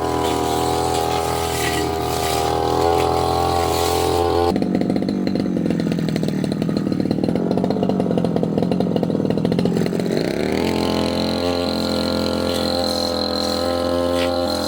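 Petrol brush cutter engine running at speed with a steady note. From about four seconds in to about ten seconds in the note changes and turns rough and pulsing, then it settles back to the steady note.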